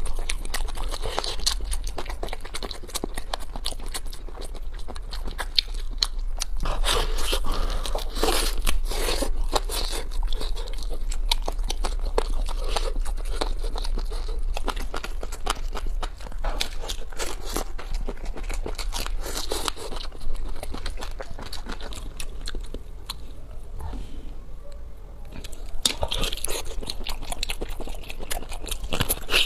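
Close-miked biting and chewing of braised pork knuckle: continuous irregular mouth noises as meat and skin are torn from the bone and chewed, with a low steady hum underneath.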